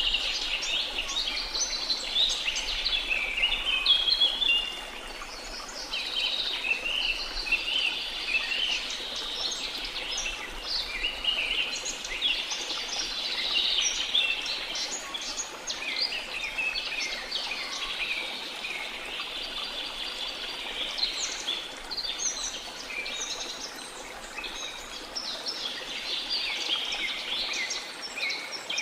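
A dense chorus of many forest birds chirping and trilling, with calls overlapping throughout. Underneath is a faint, steady rush of flowing water.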